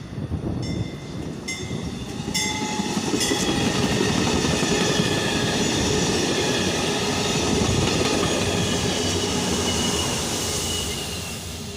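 A train passing close by: a dense rumble of wheels on the rails with thin, steady high tones above it. It builds over the first few seconds, holds loud through the middle and fades away near the end.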